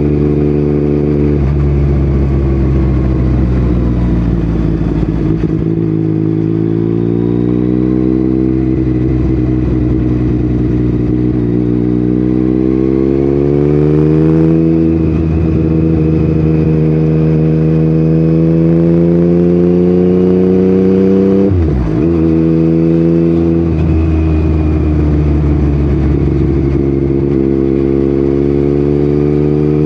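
Yamaha MT-09 inline three-cylinder engine running through an Akrapovic exhaust while riding. Its note climbs steadily for several seconds under acceleration, holds, then drops sharply for a moment about three quarters of the way through before steadying again.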